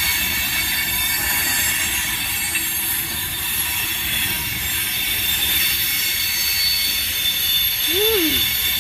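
Freight train cars rolling past at close range, steel wheels running on the rails with a steady rumble and several thin, high, squealing tones over it.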